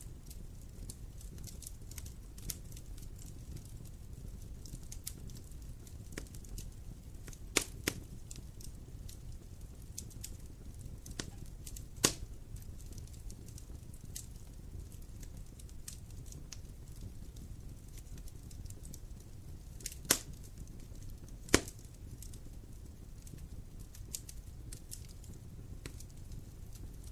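Wood fire crackling: a steady low rumble of burning under many small irregular crackles, with a few sharper, louder pops from the burning wood scattered through.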